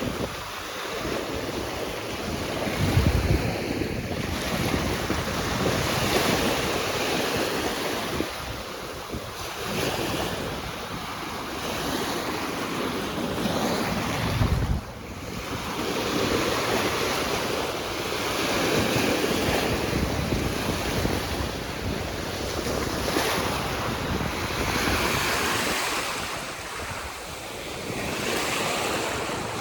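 Ocean surf: waves breaking and washing in, swelling and falling every few seconds, with wind buffeting the microphone in low rumbles.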